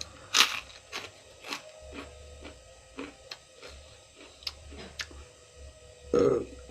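Close-up mukbang chewing of crunchy raw vegetables: crisp, wet crunches at about two a second, with a louder, duller mouth sound near the end.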